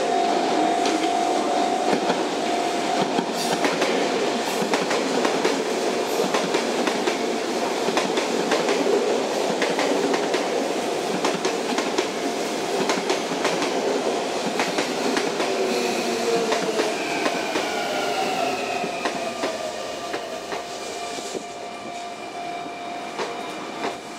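Sotetsu 9000 series electric train running past, its wheels clicking over the rail joints. A level-crossing warning bell rings steadily. Later on, the traction motors' whine falls in pitch as the train brakes.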